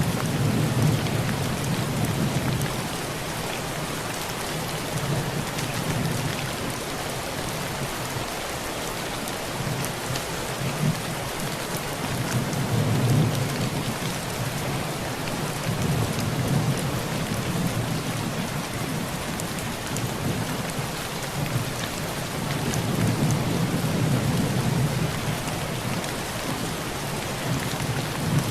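Heavy rain drumming steadily on a tin roof, with scattered drop ticks over a constant hiss. Low rolls of distant thunder swell and fade several times beneath it.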